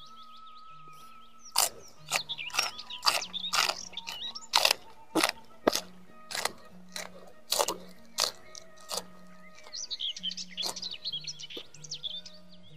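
Crisp crunching of raw leafy vegetable stems being bitten and chewed, a quick run of sharp crunches through the first two-thirds, then birds chirping near the end.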